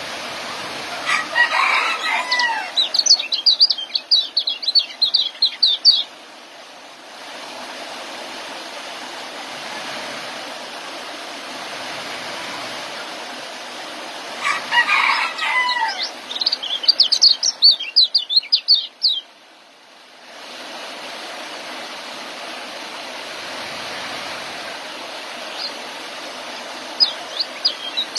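Young white-eye (kecial) singing its 'ngeriwik' twittering song in two bouts of about five seconds each, with a third starting near the end. Each bout opens with a few gliding notes and breaks into a rapid string of high chirps. A steady hiss runs underneath.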